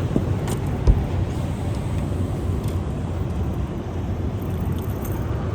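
Steady low rumble of wind and boat noise on a bass fishing boat, with one dull thump about a second in.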